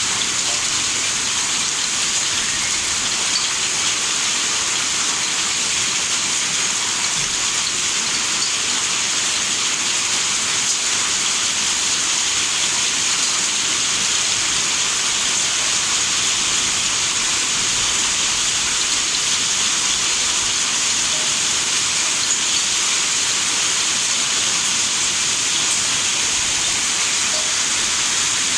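Heavy hailstorm downpour falling steadily, an even, dense hiss with no let-up.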